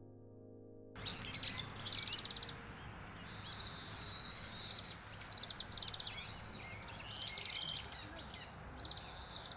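Birds calling from about a second in: a series of shrill, fast-trilled chirps and squeals, several overlapping, over a steady outdoor background hiss.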